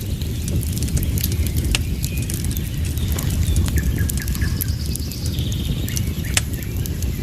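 Wood fire crackling in a fireplace: sharp irregular pops and snaps over a steady low rumble, with a few short high chirps.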